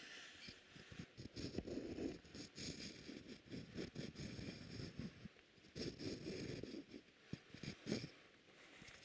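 Close-miked ASMR trigger sounds: soft, irregular scratching and rustling strokes, faint and uneven in pace.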